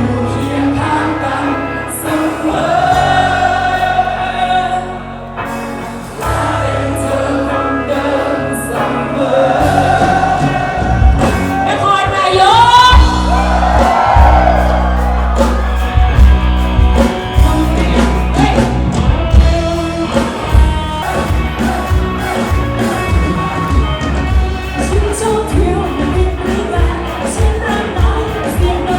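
A song performed live with singing over a backing band; the drums and bass come in strongly about ten seconds in and keep a steady beat.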